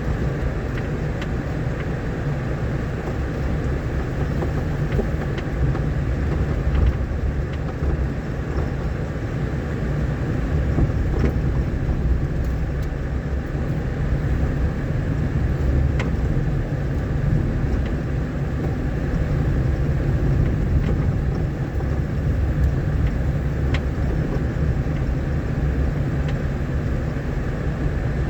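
Vehicle driving along a rough dirt road: a steady low rumble of engine and tyres, with a few faint sharp knocks now and then.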